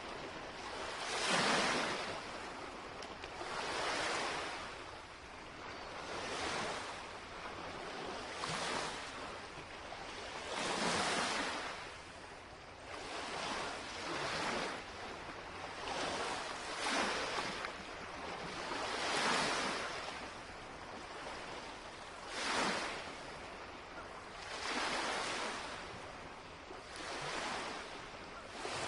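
Small lake waves lapping and breaking on the shoreline, each wash swelling and fading every two to three seconds.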